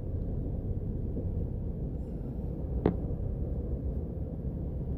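Steady low road and engine rumble heard inside the cabin of a moving car, with a single short click a little under three seconds in.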